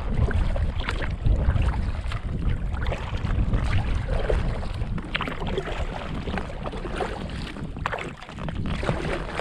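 Wind rumbling on the microphone, with the irregular splashes and drips of a kayak paddle dipping into canal water.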